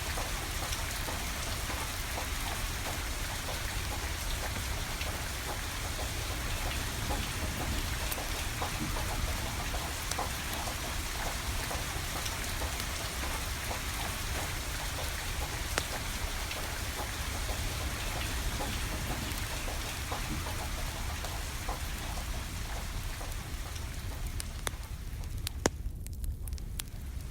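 Steady rain falling, a constant hiss, with scattered sharp pops and crackles from a burning wood fire. Near the end the rain hiss briefly thins, leaving a few crackles standing out.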